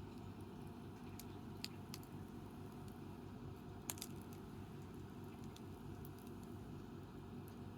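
Wood campfire burning with a faint low rumble, punctuated by a few sharp crackles and pops of the wood, the loudest pair about four seconds in.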